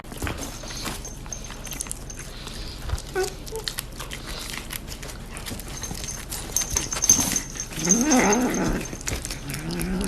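A pet animal cries out once, about eight seconds in, with a rising and falling whine, over steady rustling and clicking handling noise; a weaker rising cry follows near the end.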